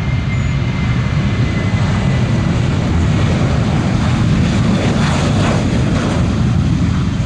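Airliner jet engines at high power during a departure, a loud steady low rumble.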